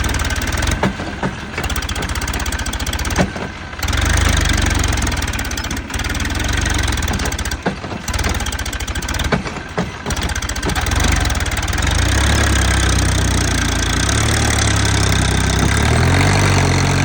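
Massey Ferguson 245 tractor's diesel engine running while hauling a trolley. The sound drops briefly several times in the first ten seconds, then runs steady, rising slightly in pitch near the end.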